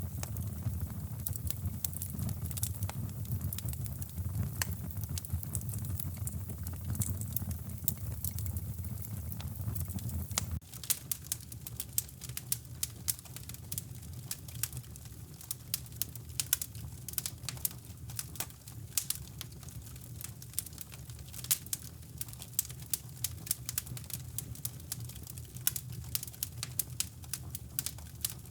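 Wood fire in a fireplace crackling, with frequent sharp pops and snaps. Underneath runs a low steady rumble that drops sharply about ten seconds in.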